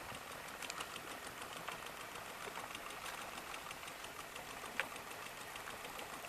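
A small engine running faintly with a fast, even ticking, and one sharper click near the end.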